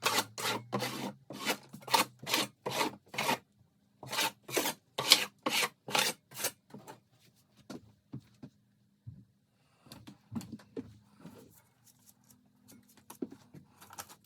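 Hand scraping on a floor: quick back-and-forth rasping strokes, about two to three a second, in two runs with a short pause about three seconds in. After that they give way to fainter scattered scrapes and knocks.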